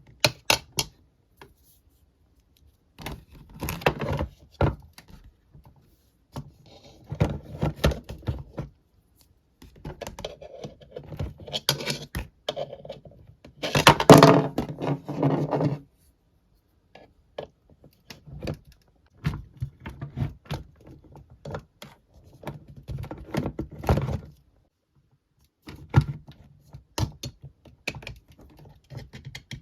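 Hard plastic toy pieces being handled, clattering, knocking and scraping against each other in bursts with short pauses between, the loudest burst about halfway through.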